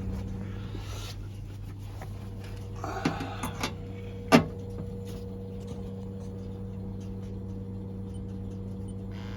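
Vaillant Turbomax gas boiler running on its low setting with a steady hum, with a few light knocks around three seconds in and a sharp click a little over four seconds in.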